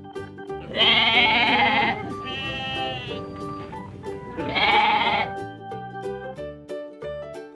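Goat bleating three times, the calls long and wavering, the middle one higher, over background music.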